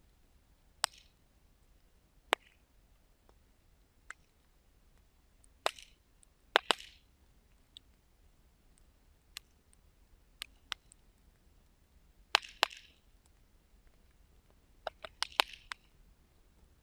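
Wood fire crackling: irregular sharp pops every second or two, some with a brief hiss after them, and a quick run of about five pops near the end.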